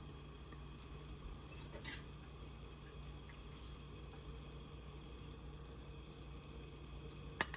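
Quiet kitchen with a steady low hum, a few faint light clinks about two seconds in, and one sharp click near the end.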